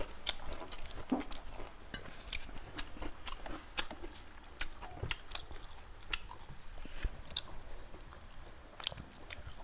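Close-up eating sounds of people chewing spicy pork curry with rice: many short, irregular wet clicks and smacks of mouths working on food.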